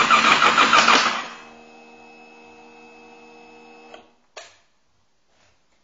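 Kawasaki ER-6's 650 cc parallel-twin engine being cranked on its electric starter with a rhythmic chugging, and not catching, in keeping with a bike that won't start. The cranking stops about a second in, leaving a faint steady hum, then a click near four seconds and a short rustle.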